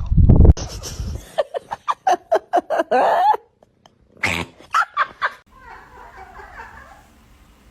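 A pet animal calling in a quick string of short, pitched yips, about four a second, with a loud low rumble just before them.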